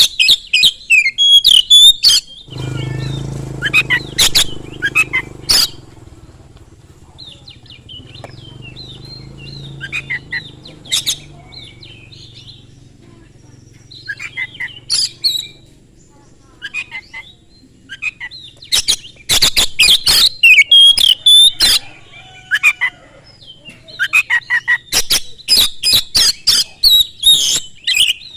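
Oriental magpie-robin (kacer) singing loudly in repeated bouts of rapid, varied whistles and sharp clicking notes, with short pauses between bouts. A faint low hum sits underneath during the first half.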